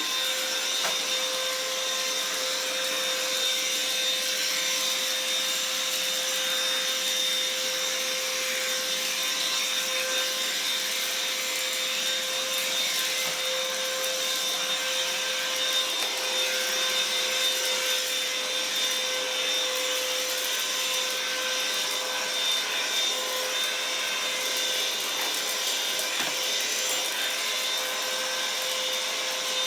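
Black & Decker vacuum cleaner running steadily with a high motor whine and rushing airflow, with faint crackles of crunchy debris being sucked up.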